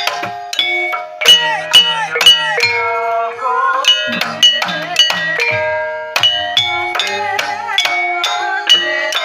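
Banyumasan gending tayub played on a gamelan ensemble: struck keyed instruments ringing out notes in a steady, dense rhythm, with drum strokes mixed in.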